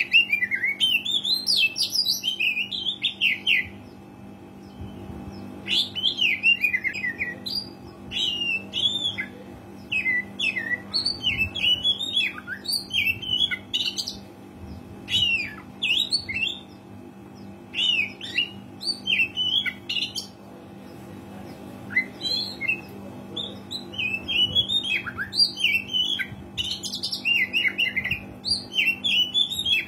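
Oriental magpie-robin in full song, giving bouts of rapid, varied whistled and chattering phrases broken by short pauses. A low steady hum runs underneath.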